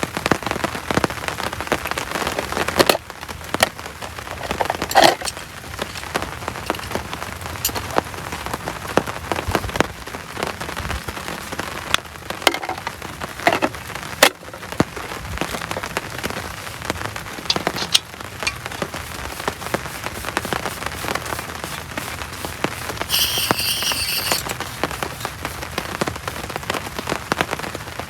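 Heavy rain falling steadily on surfaces, with scattered sharp drips and taps. A brief high-pitched sound lasting about a second comes near the end.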